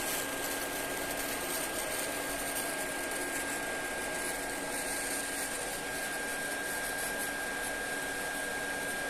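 Homemade induction heater running, its Pride car cooling fan blowing steadily with a thin, steady high whine over the air noise.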